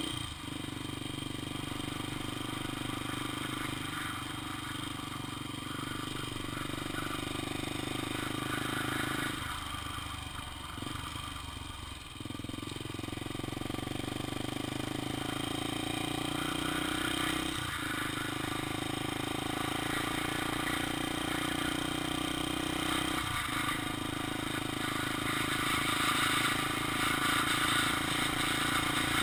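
Honda XR 250 Tornado's single-cylinder four-stroke engine running while riding, with a dip in level about ten seconds in and two brief breaks later, getting a little louder near the end.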